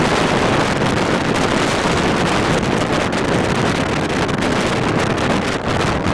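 A train running close by: a loud, steady rush of wheels on the rails, with scattered clicks, mixed with wind buffeting the microphone.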